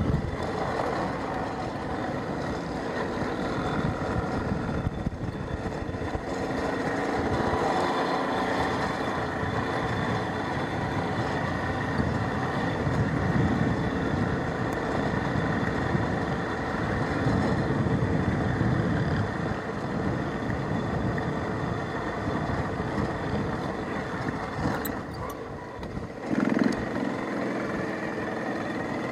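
Motorcycle engine running steadily. It dips a little about 25 seconds in, then briefly gets louder just after.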